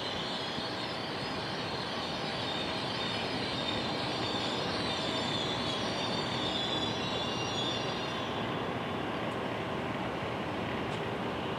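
NJ Transit train led by an ALP-46A electric locomotive rolling slowly into the station, with a steady rumble. Its wheels give a high, wavering squeal that fades out about eight seconds in.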